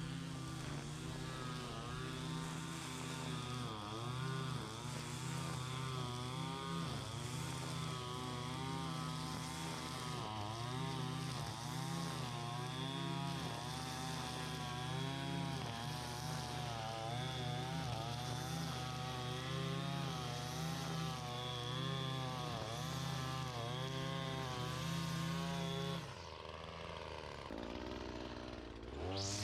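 Small gas engine of lawn equipment running hard, its pitch wavering up and down about once a second, with a steady high whine over it. It drops away suddenly near the end.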